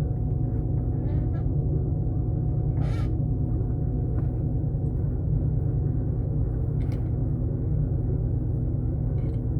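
Pickup truck engine idling steadily, with a couple of brief clicks or knocks about three and seven seconds in.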